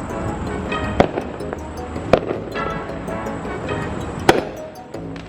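Three sharp firework bangs, a second or two apart, over background music.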